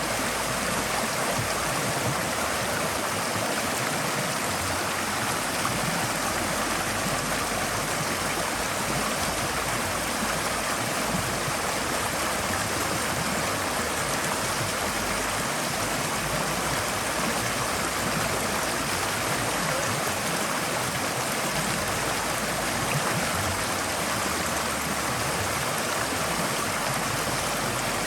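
Forest stream flowing steadily over rocks, a continuous even rush of water.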